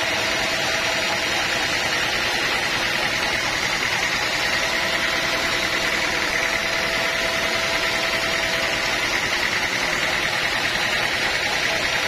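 Sawmill machinery running steadily: a continuous mechanical noise with a faint high whine held throughout.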